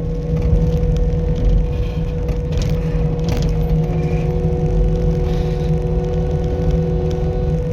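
Skid steer loader's engine running steadily under a low hum, with a steady whine over it and a few brief clanks.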